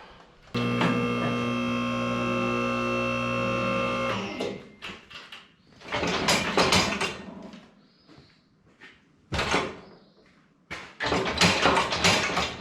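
A machine runs with a steady hum for about three and a half seconds and stops, followed by a few short bursts of clattering noise.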